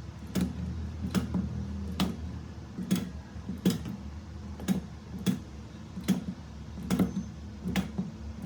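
Battery spot welder firing on nickel strip over 18650 cells: a sharp snap about every second, a dozen or so in a row, over a low steady hum.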